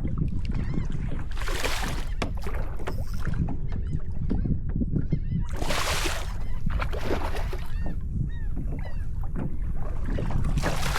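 Water sloshing and splashing around a fishing kayak, with three louder splashing washes about 2, 6 and 11 seconds in over a steady low rumble.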